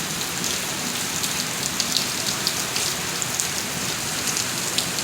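Steady rain falling, with many individual drops pattering and splashing close by.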